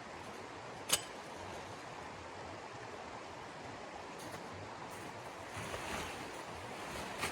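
Steady rushing of wind in a snowstorm, with one sharp click about a second in and a few soft rustles near the end.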